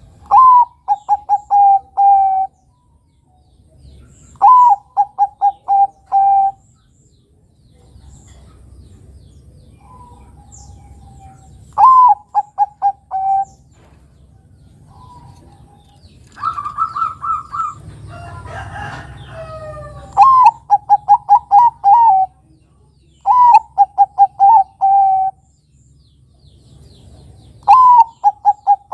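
Zebra dove (Bangkok-type perkutut) singing its cooing song: six repeated phrases, each an upward-flicked first note followed by a quick run of short clipped coos ending in a longer one. About two-thirds of the way through, a higher, quicker run of notes and a brief rustling noise come between the phrases.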